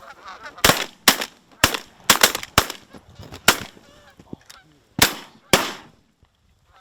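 A volley of shotgun fire from several hunters at incoming geese: about ten shots in quick, uneven succession, with geese honking between them, ending about six seconds in.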